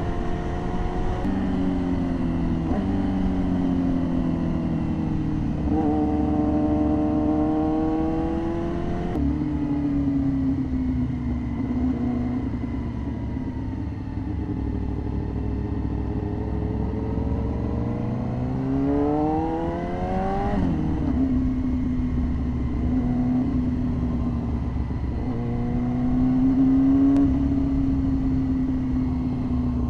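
Yamaha R6 inline-four sport-bike engine under way, heard from the rider's position. Its pitch holds steady while cruising, shifts up and down with the throttle and gear changes, and climbs through a long rev about eighteen seconds in before dropping sharply.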